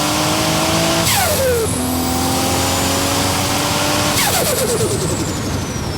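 Turbocharged Nissan GT-R engine in a Datsun 240Z accelerating through the gears: the revs climb steadily, and twice, about a second in and about four seconds in, a gearshift drops the pitch. Each shift comes with a sharp burst of turbo flutter as the throttle snaps shut.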